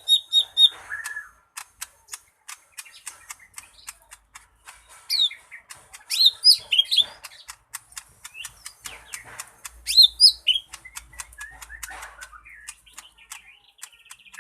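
Cucak ijo mini leafbird singing: a run of sharp, dry clicking notes, broken by louder bursts of quick looping whistles about five seconds in, around six to seven seconds, and again about ten seconds in.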